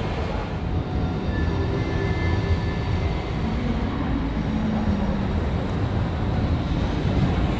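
Deutsche Bahn ICE 4 high-speed train rolling slowly into a station platform under a large train shed, heard as a steady low rumble of train and station noise.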